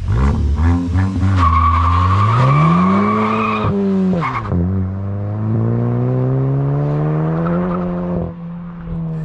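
Volkswagen MK8 GTI's 2.0-litre turbocharged four-cylinder through a muffler-delete exhaust with the stock downpipe, under a hard full-throttle pull: revs climb with a brief tyre squeal, drop at a gear shift about four seconds in, climb again more slowly, then fall away as the driver lifts off about eight seconds in.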